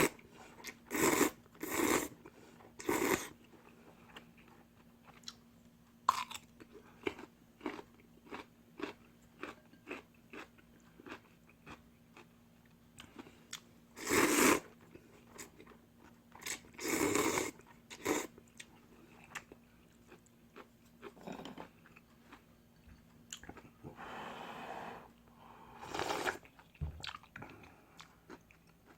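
A person eating instant ramen close to the microphone: wet chewing and crunching clicks throughout. Several louder, longer bursts of noodle slurping come near the start, about halfway through and again later.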